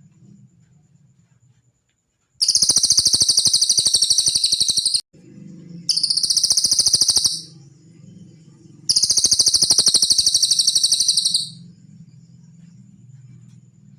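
Cililin songbird singing three long, fast, high trills, the first starting a couple of seconds in, with short gaps between them.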